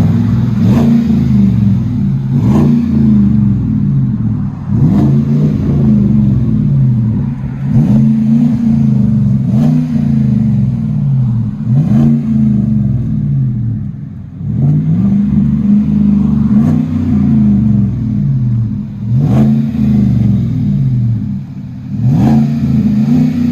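V8 truck exhaust through a 14-inch-body Magnaflow muffler, the engine blipped about ten times, each rev rising and falling back to idle, with a deep rumble.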